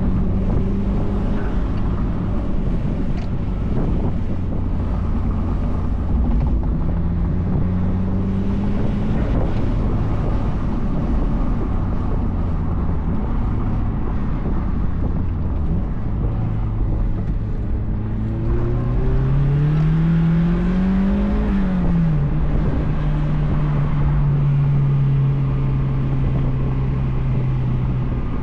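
A 2004 Mazdaspeed Miata's turbocharged 1.8-litre four-cylinder running through a cat-back exhaust while driving, with wind rushing past the open top. Its note climbs steadily under acceleration about two-thirds of the way in, drops sharply at a gear change, then holds steady.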